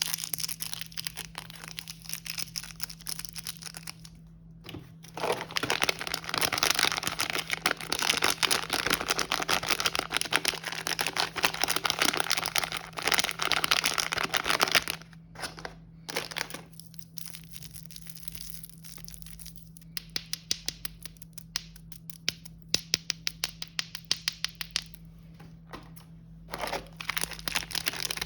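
Plastic snack packaging crinkling and rustling as wrapped items are handled, dense for about ten seconds, then giving way to scattered light taps and clicks.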